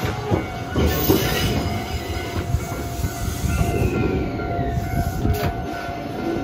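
Stainless-steel Shizuoka Railway 1000 series electric train rolling slowly past at close range: a steady rumble of wheels on rail. About three and a half seconds in, a wheel squeal slides down in pitch, and near the end there is a sharp click.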